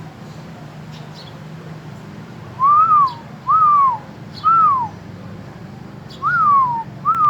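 A bird calling with five clear whistled notes, each rising then falling in pitch and lasting about half a second, the first a few seconds in and the rest about a second apart.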